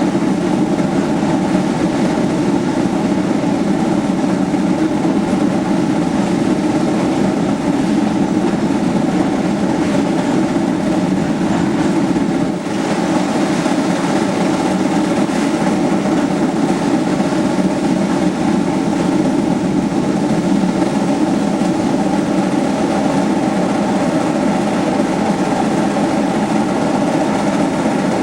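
Heisler geared steam locomotive working as it pushes a passenger train: a loud, dense, continuous sound of exhaust and running gear with the cars rolling, briefly dipping about halfway.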